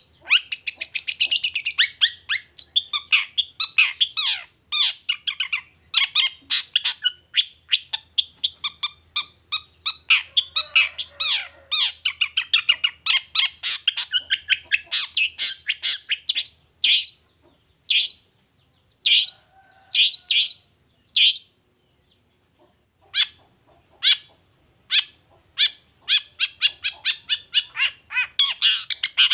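Long-tailed shrike singing a fast, varied song of rapid sharp chattering notes, pausing briefly about three quarters of the way through.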